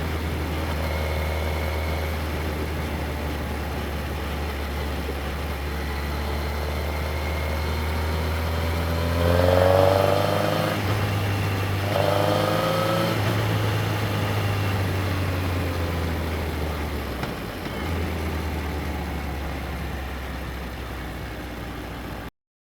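Yamaha XJR1300's inline-four engine running low and steady, then revving up twice in quick succession about halfway through as the bike accelerates. It then settles back to a lower, easing note, and the sound cuts off abruptly just before the end.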